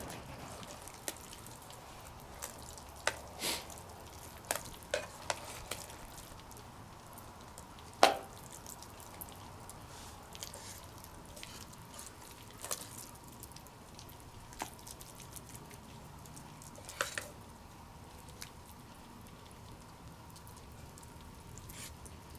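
Eating from metal camp cookware: scattered clicks and scrapes of a utensil against the pot, the loudest about a third of the way in, over a low steady background.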